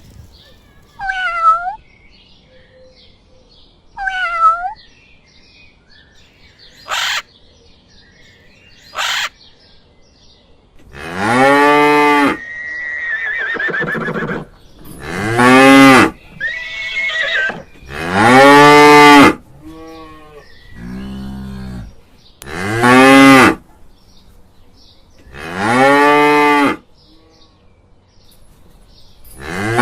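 Cow mooing, five long calls spaced a few seconds apart in the second half. Earlier come two short, higher calls and a couple of sharp clicks.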